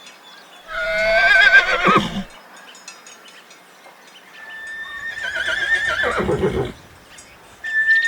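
Horse whinnying twice: two wavering calls, each falling away in pitch at the end, with a pause of about two seconds between them.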